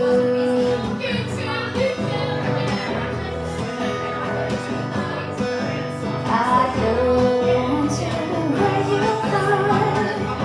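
Live acoustic guitar strumming under a singer holding long, wavering notes.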